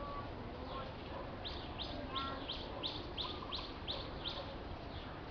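A bird calling: a quick run of about ten short chirps, each falling in pitch, about three a second, starting about a second and a half in.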